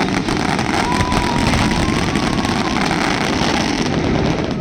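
Fireworks going off in a dense run of crackling bursts over a steady rumble, with a thin whistling tone drifting slightly up in pitch through the middle.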